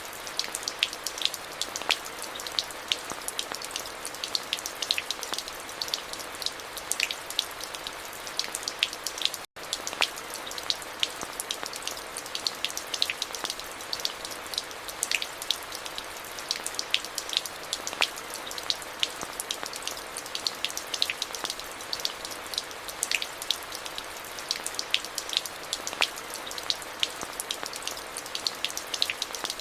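Steady rainfall: an even hiss with many distinct, sharp drop impacts landing on a hard surface. The sound cuts out for an instant about nine and a half seconds in, then carries on unchanged.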